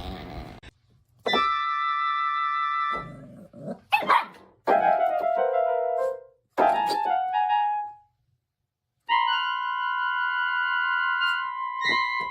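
Keyboard notes held for a couple of seconds each, twice, and between them a dog giving short wavering howls, one rising in pitch.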